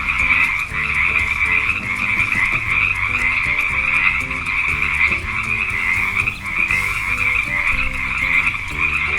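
Frogs croaking continuously in a dense, unbroken chorus, over soft background music.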